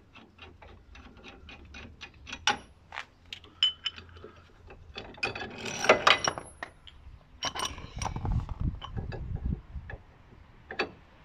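A ratchet clicks in a steady run, then metal tools clank and knock, with a dense cluster of clanks about six seconds in. The work is on a front wheel bearing that went into the hub crooked and has to be pulled back out.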